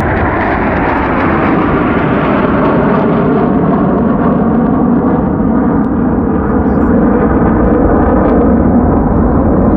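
Loud, steady roar of Blue Angels F/A-18 Super Hornet jet engines, growing slightly duller over the last few seconds.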